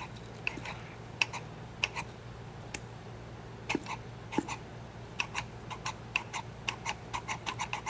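Light metallic clicks from an H1 SU carburetor's piston working in its cleaned dash pot. The clicks come sparsely at first, then in a quicker run of about six a second in the second half, over a steady low hum. The piston is moving freely.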